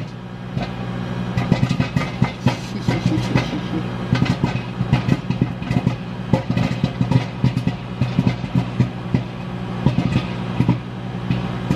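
Popcorn kernels popping in a microwave air popper: irregular sharp pops, sometimes several close together, over the steady hum of the running microwave oven.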